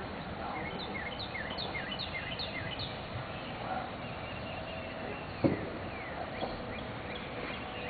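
A bird chirping in quick, repeated short notes for the first few seconds over a steady rush of background noise, with one sharp click about five and a half seconds in.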